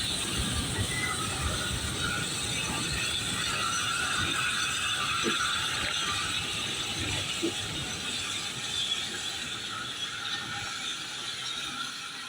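Goods train rolling by, its wagons rattling and clanking on the rails in a steady rapid clatter that grows a little quieter near the end.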